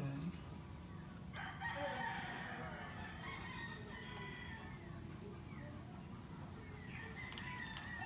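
Faint bird calls, with a longer wavering call starting about a second and a half in.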